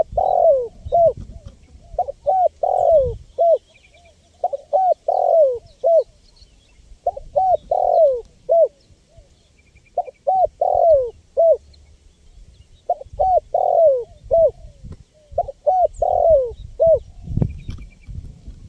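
Spotted dove (tekukur) cooing, repeating its song phrase about every two and a half seconds. Each phrase is a quick run of short coos around one longer coo that falls in pitch.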